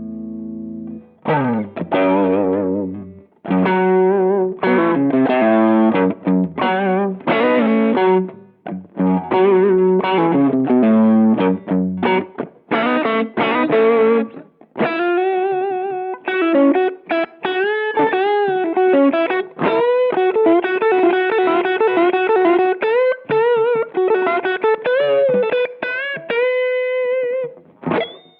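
Electric guitar played through a Behringer Vintage Overdrive TO100, a Tube Screamer-style overdrive pedal, giving a driven, saturated tone. Chord riffs make up the first half, and from about halfway on it turns to single-note lead lines with vibrato and string bends.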